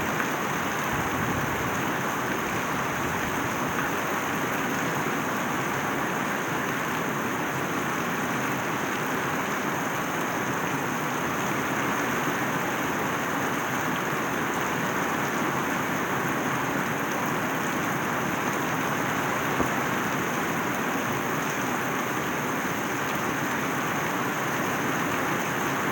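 Steady rain falling, a constant even rush of water with no breaks.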